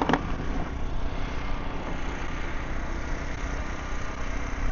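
An engine idling steadily, with a sharp click just after the start.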